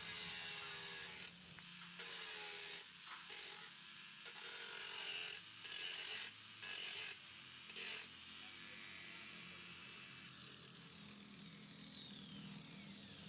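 Angle grinder working on the steel frame of a CD motorcycle in short on-off passes, then spinning down with a falling whine over the last few seconds.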